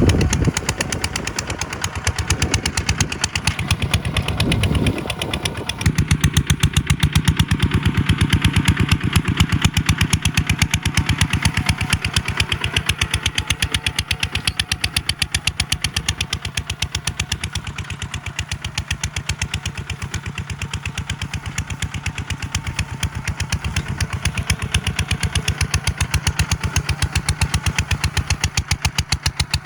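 Tractor diesel engine running with a rapid, even clatter of firing pulses and a steady low hum. The deep rumble underneath is heavier for the first six seconds or so, then thins out.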